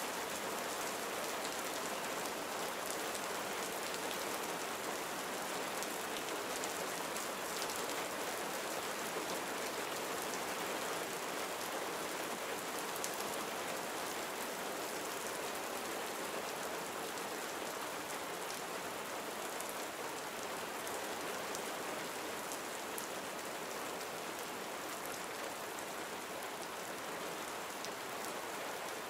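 Gentle rain falling steadily, an even hiss of drops on surfaces with faint scattered drip ticks.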